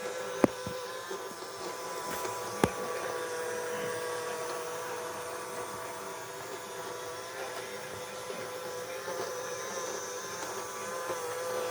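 Small robot vacuum cleaner running, a steady motor hum with a whining tone. Two sharp clicks come in the first few seconds.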